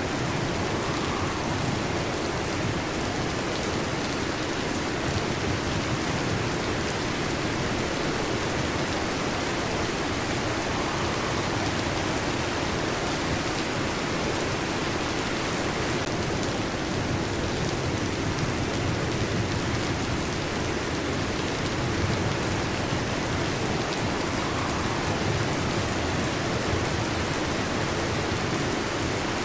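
Heavy rain drumming steadily on a metal roof, an even, unbroken hiss of drops.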